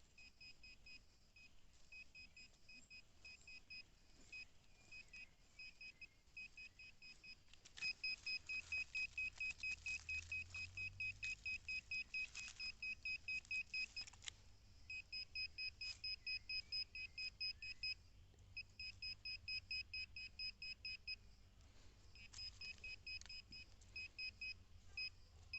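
Metal-detecting pinpointer beeping in rapid, evenly spaced high pulses, almost without a break for several seconds in the middle, alongside scraping in the soil. It is beeping in mineralized soil, where it does not work properly.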